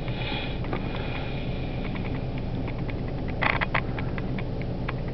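Freight train of boxcars rolling past and picking up speed: a steady rumble with a string of sharp clicks and clanks. A brief louder clatter comes about three and a half seconds in.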